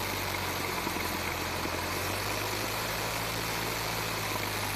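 Single-engine light airplane's piston engine idling steadily, with a steady hiss over it. The low hum shifts slightly about two seconds in.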